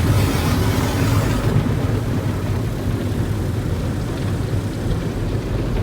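Automatic tunnel car wash heard from inside the car's cabin: a steady low rumble of the wash machinery, with a hiss that drops away about a second and a half in.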